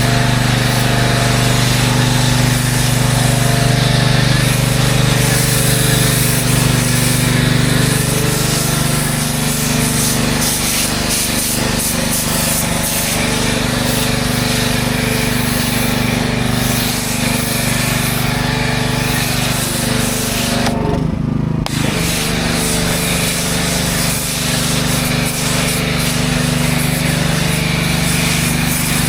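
A motor-driven machine running steadily with a constant hiss over a low hum; it briefly cuts out and wavers in pitch about two-thirds of the way through.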